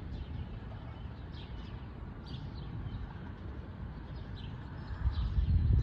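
Birds chirping on and off over a steady low outdoor rumble, which swells louder for about the last second.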